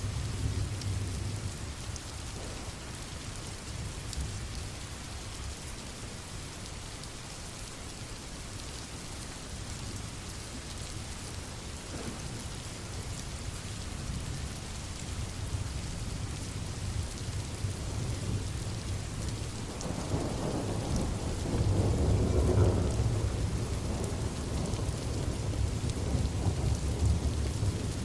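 Steady rain falling, with low rolling thunder underneath that swells into a louder, longer roll about two-thirds of the way through.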